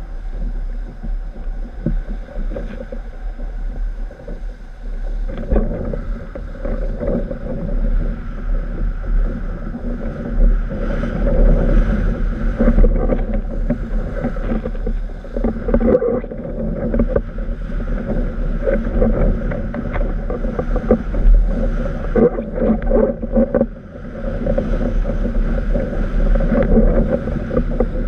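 Wind buffeting the microphone over the rush and slap of water against a windsurf board sailing at speed in a strong breeze. A continuous, uneven noise with a heavy low rumble and frequent small knocks.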